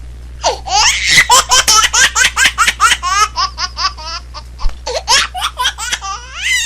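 High-pitched laughter: a rapid run of short squealing bursts, several a second, each sliding up or down in pitch, easing off near the end.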